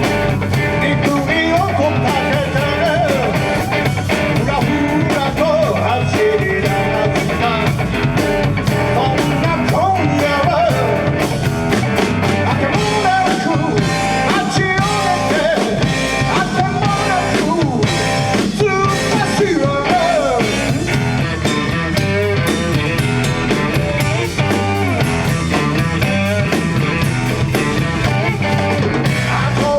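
Rock band playing, with guitar over bass and a drum kit, and no vocals heard as words.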